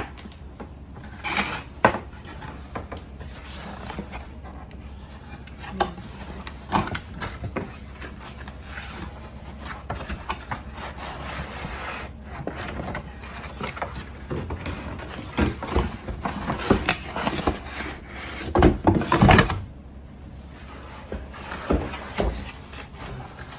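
A cardboard box and its packaging being handled and opened: rubbing, scraping and scattered knocks, with a louder stretch of handling about three-quarters of the way through.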